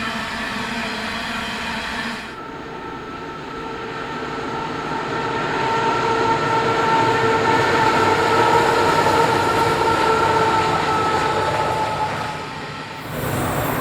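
Diesel freight locomotives hauling a coal train. The sound cuts abruptly about two seconds in and again near the end. In between, the train's running noise carries a steady whine that grows louder and then fades as it passes.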